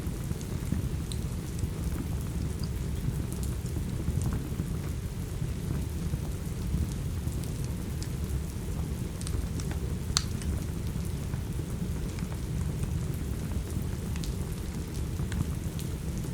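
Steady rain with a deep low rumble underneath, and scattered sharp crackles and pops from a wood fire in a fireplace.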